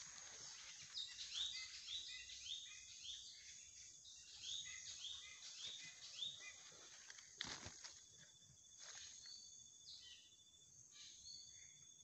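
Faint bird call: a run of short falling notes about two a second, heard twice in the first half. A brief rustle comes past the middle, and then a thin, steady, high insect trill runs on.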